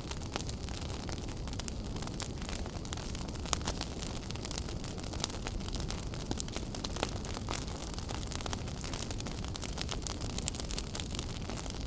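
Wood fire burning in a fireplace: a steady low rumble with sharp, irregular crackles and pops.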